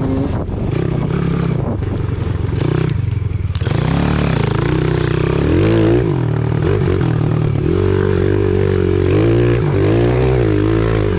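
Pit bike engine running under throttle, its revs rising and falling again and again, with a quick wavering in pitch in the last few seconds.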